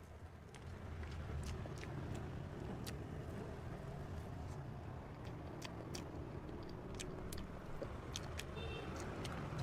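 Close-miked chewing of a cream-filled mochi cake: soft, sticky mouth clicks scattered over a steady low rumble.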